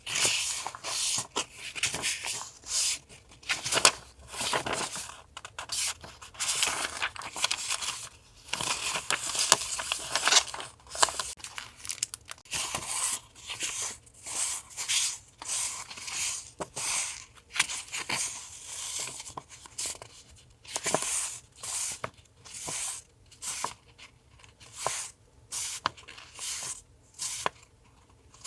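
Paper and plastic sticker packets rustling and crinkling as they are handled and opened, in short irregular spells.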